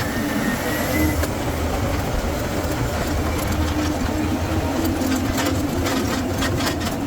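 A vehicle engine running steadily with a low rumble, with a run of light clicks and rattles in the second half.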